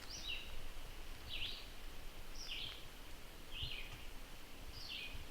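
A songbird calling in the background: short high chirps repeated about once a second.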